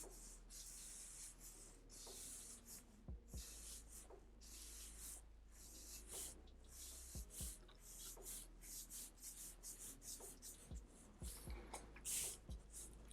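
Pencil scratching on paper in many short, quick strokes as feather lines are drawn, with a few louder strokes near the end.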